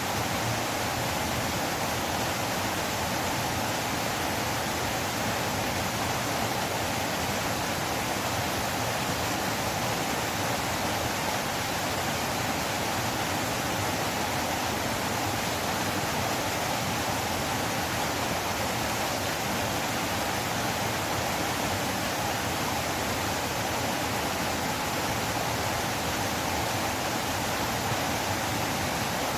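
River water rushing and flowing, an unbroken even hiss with no change in level.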